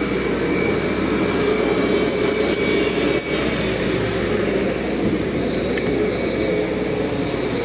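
Steady mechanical drone of airport machinery, with a constant hum running under it.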